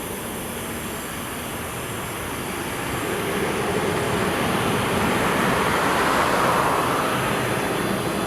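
Boeing 777-300ER jet airliner on landing approach, its GE90 engines' noise growing steadily louder from about three seconds in as it comes close.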